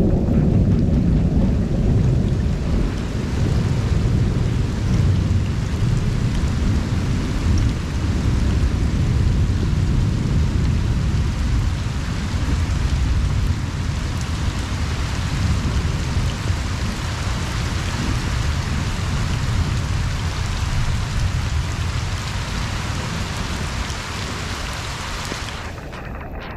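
Heavy rain falling on pond water, with a long roll of thunder rumbling underneath that slowly dies away near the end.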